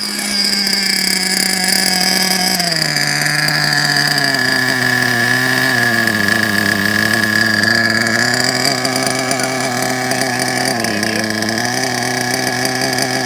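Novarossi 2.5 supercharged two-stroke nitro engine in a Traxxas Slayer RC truck running at a steady high pitch, then dropping in pitch a couple of seconds in and wavering up and down, with a thin high whine over it.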